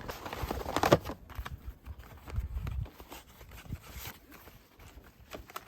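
Scattered knocks and clicks of objects being handled and set down, the loudest about a second in.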